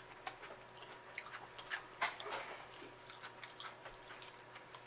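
Close-miked chewing and biting as someone eats seafood boil in sauce: a scatter of faint, quick wet clicks and small crunches.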